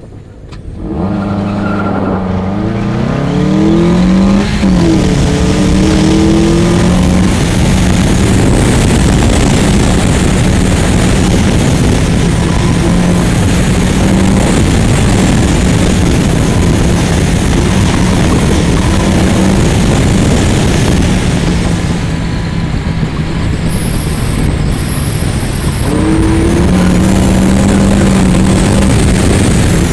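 A 1999 Mazda Miata's 1.8-litre four-cylinder engine under hard acceleration on an autocross run. It launches about a second in, its pitch rising with a gear change a few seconds later, then holds high revs under a steady rush of noise. Late on it eases off for a few seconds, then accelerates again.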